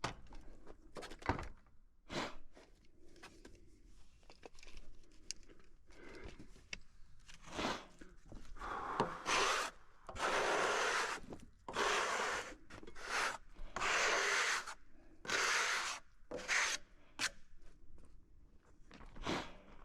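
Wood being scraped and rubbed in a series of long strokes, about six of them, loudest in the second half, with scattered knocks before them.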